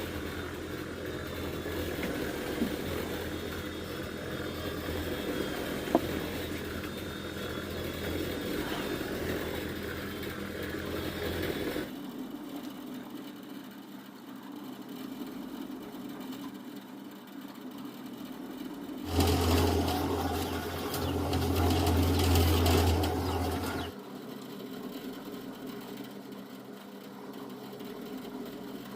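An engine running steadily, its sound changing abruptly several times, with a louder stretch about two-thirds of the way through.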